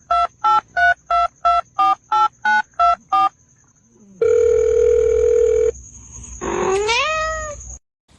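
Telephone keypad tones: about ten quick beeps dialed in a row, then a steady tone lasting about a second and a half. Near the end a cat meows once, its pitch rising.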